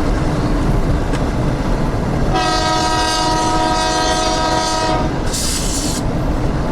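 GE 80-ton center-cab diesel switcher sounding one long air-horn blast of about three seconds, starting a couple of seconds in, followed by a short hiss of air under a second long. Under it the locomotive's engine rumbles steadily, with wind buffeting the microphone.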